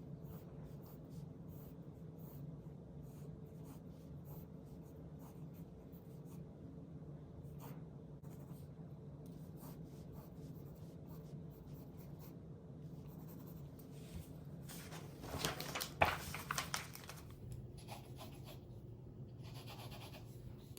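Pen writing on paper in short scratching strokes over a low steady hum, with a louder burst of rustling and clicks about three quarters of the way through.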